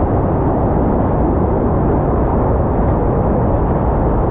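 Waterfall's steady rushing roar, loud and even, with most of its weight in the low range.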